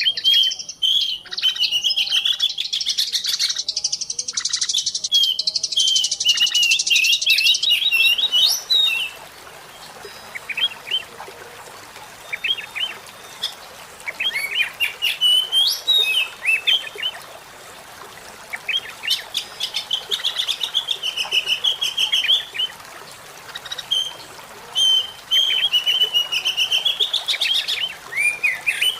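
Small songbirds chirping and trilling, played as a lure call to draw in wild birds. Dense, continuous high chirping gives way about 8 seconds in to sparser bursts of quick trills over a faint hiss, which thicken again toward the end.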